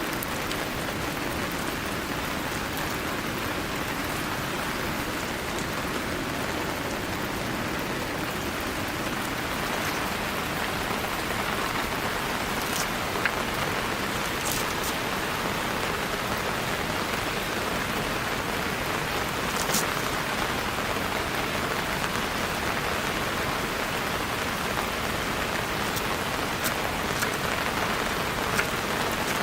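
Steady rain falling, with a few sharper single drops striking close by now and then.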